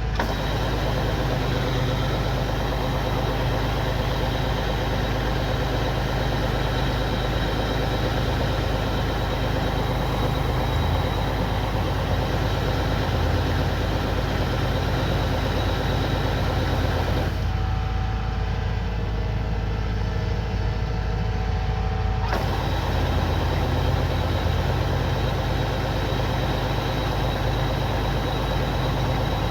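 Kubota combine harvester's diesel engine and threshing machinery running steadily under load, with a steady hum and a whine. For a few seconds past the middle the higher sounds drop away, then return.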